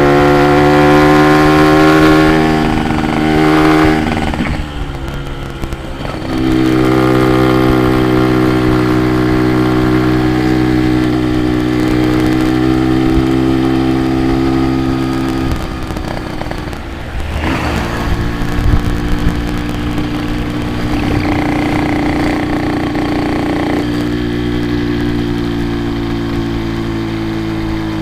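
Yamaha RX-King two-stroke single-cylinder motorcycle engine running under way. It holds a steady pitch for several seconds at a time, with a few shifts where the throttle is eased off and opened again.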